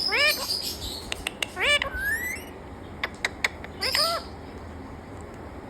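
Parrot calling: short squawks that rise and fall in pitch, mostly in pairs, a rising whistle about two seconds in, and a few sharp clicks. It falls silent after about four seconds.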